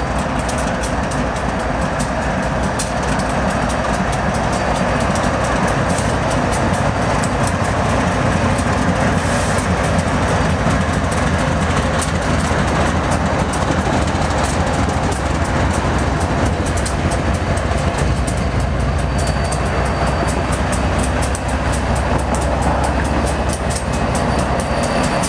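Norfolk Southern freight train's diesel-electric locomotives (a GE Dash 9-40CW, an EMD SD60I and a GE ES40DC) passing close by, their engines a steady low rumble over the noise of wheels on rail.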